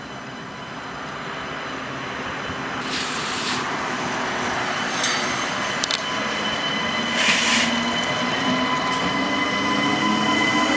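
TGV Euroduplex high-speed trainset 809 approaching at low speed, its running noise growing steadily louder under a steady high-pitched whine. There are two short hisses, about three and seven seconds in. Near the end a lower whine rises in pitch as the train gathers speed.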